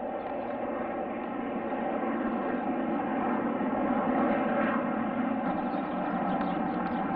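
Aircraft engine noise from a plane flying past, a steady drone that grows louder to a peak about halfway through and then eases slightly.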